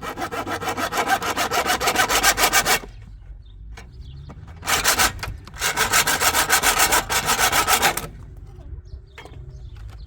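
Hand saw cutting with fast, even back-and-forth strokes, in two spells with a pause of about two seconds between them.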